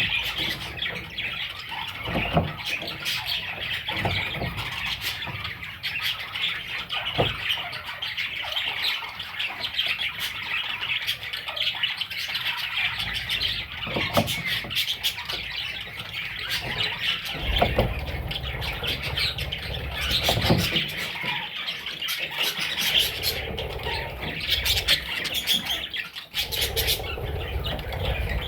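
Budgerigar chicks chirping and squawking without pause, a dense chatter of many short, high calls, with a few low bumps in the second half.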